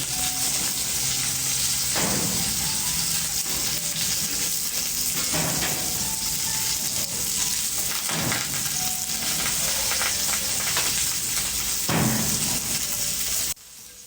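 Leaf-wrapped meat rolls sizzling as they fry in hot pork lard in a pan over a wood fire: a steady, loud frying hiss that swells briefly a few times. It cuts off abruptly near the end.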